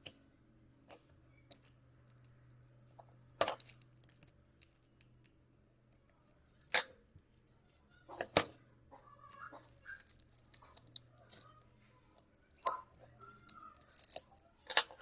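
Sharp clicks and snaps of small tools and parts being handled during a phone screen repair, a handful of them loud and the rest light, growing busier with light scraping and rustling over the second half. A faint steady low hum runs underneath.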